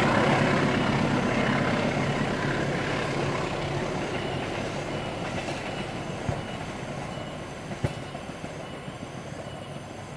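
Passenger train rolling away along the track, its wheels clattering on the rails and the sound fading steadily. There is one sharp click about eight seconds in.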